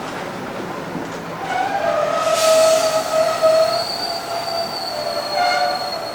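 Train wheels squealing against the rails, a high squeal that builds about a second and a half in and dies away near the end, over the running noise of the train.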